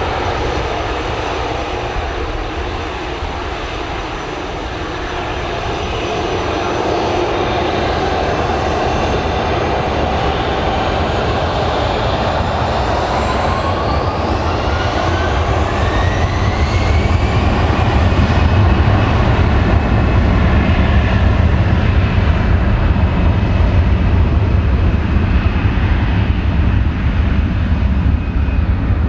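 Airbus A320-214 jet engines (CFM56-5B turbofans) at takeoff, a heavy rumble growing louder. Around the middle a whine climbs steadily in pitch for several seconds, then holds level.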